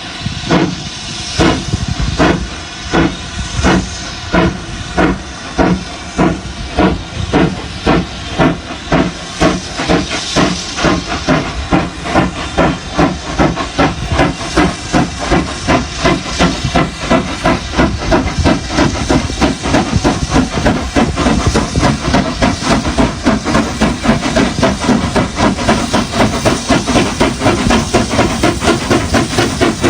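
Steam locomotive exhaust chuffing in a steady beat that speeds up from about one and a half to about three chuffs a second: the engine is picking up speed.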